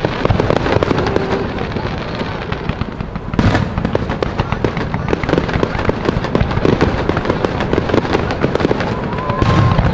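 Aerial fireworks display: a dense, continuous crackle of small bursts, with a louder burst about three and a half seconds in and another near the end.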